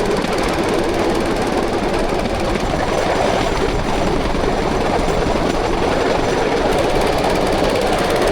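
Bamboo train (norry) running along the rails: its small engine runs loud and steady while the bamboo platform rattles and bumps over the track.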